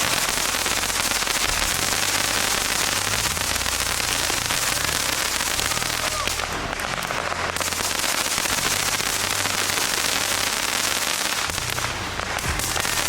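Fireworks crackling densely and without a break, many small pops overlapping, with short lulls about six and a half and twelve seconds in.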